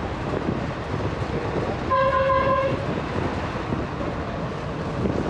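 A vehicle running with steady rattling road noise, and a single horn honk of under a second about two seconds in.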